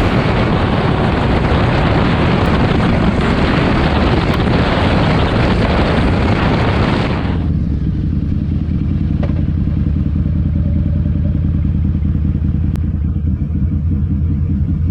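Motorcycle riding, with heavy wind rush over the engine. About seven seconds in the wind noise drops away abruptly, leaving a steady low engine rumble.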